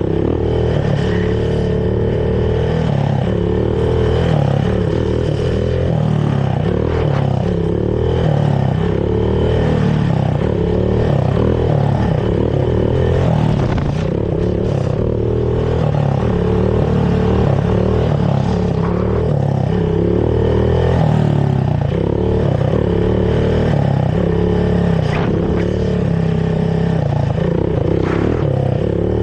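Honda TRX450R quad's carbureted single-cylinder four-stroke engine running through its stock exhaust while riding, the engine note swelling and easing about once a second.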